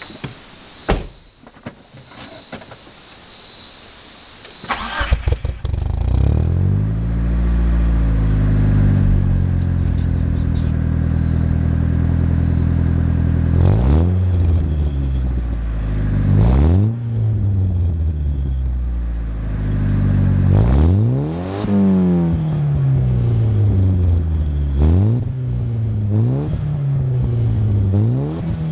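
1990 Eagle Talon TSi AWD's turbocharged four-cylinder engine, breathing through its catalytic converter and an aftermarket JDM N1 muffler: a few clicks, then it cranks and catches about five seconds in and settles into a steady idle. From about the middle on it is blipped several times, the revs rising quickly and falling back each time.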